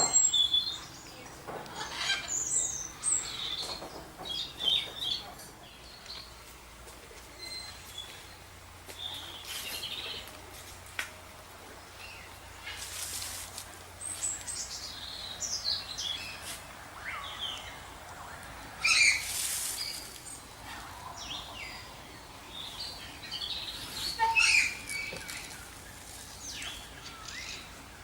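Small birds chirping in short scattered calls, with a few brief bursts of wings flapping, the loudest about halfway through and again about two-thirds of the way in.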